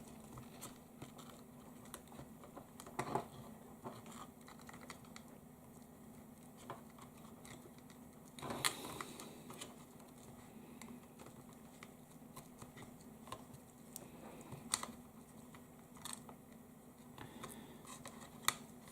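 Faint, scattered clicks and scratches of fingers handling the small plastic sat-nav housing and its flat ribbon cable while trying to line up and seat the connector, with small flurries of taps about three, eight and fifteen seconds in.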